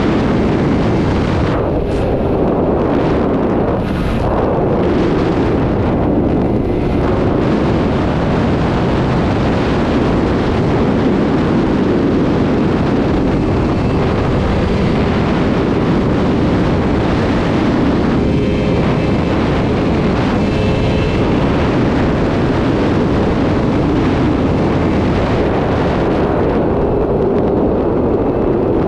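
Sport motorcycle running hard at highway speed, its engine note buried in a loud, steady rush of wind noise on the microphone.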